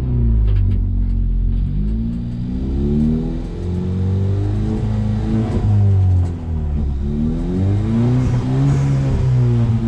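Ford Fiesta ST rally car's engine revving hard and easing off repeatedly, its pitch climbing and dropping several times as it is driven on the rallycross course.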